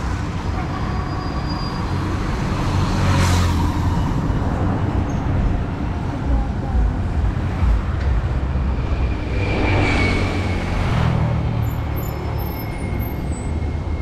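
Roadside traffic: a steady low rumble, with vehicles passing close by, the two loudest about three seconds and about ten seconds in.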